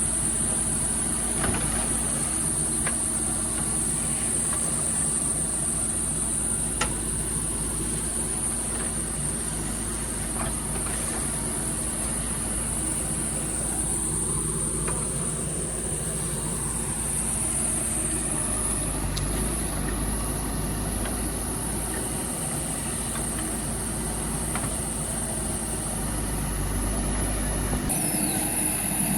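JCB 3DX backhoe loader's diesel engine running steadily, with a few scattered knocks and a constant high-pitched whine above it.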